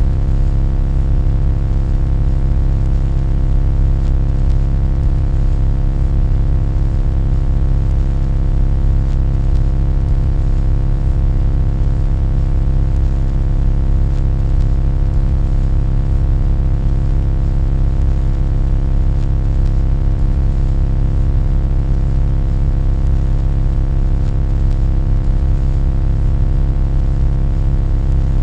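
A loud, steady low rumbling drone layered with many unchanging humming tones, used as an annoying noise.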